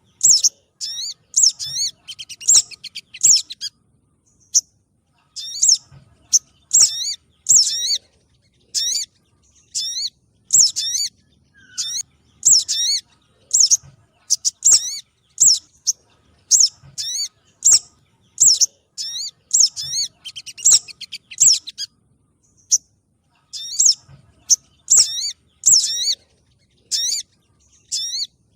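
Recorded calls of small sunbird-family birds (sogon spiderhunters and sunbirds) played as a trapping lure. Sharp, high chirps come in quick clusters, with short pauses and occasional fast trills.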